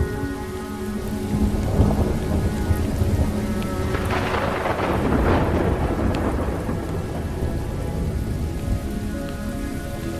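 Steady rain with rolling thunder, a louder thunder rumble swelling about four seconds in and fading over a couple of seconds, mixed over slowed, reverberant music with long sustained notes.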